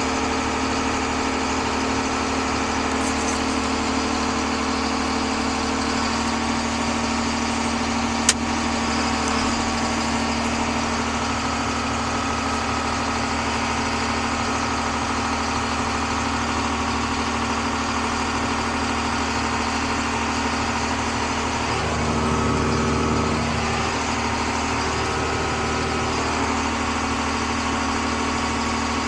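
Diesel engine of farm machinery running steadily, with one sharp click about eight seconds in and a short rise in engine sound a little past twenty-two seconds.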